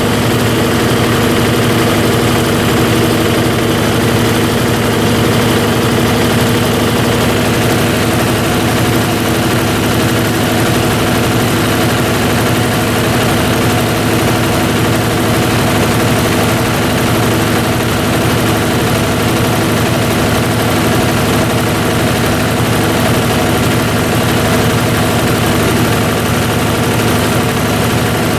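Brastemp BWT12 top-loading washer's drain pump running steadily, a constant electric hum with water being pumped out of the tub after the wash stage.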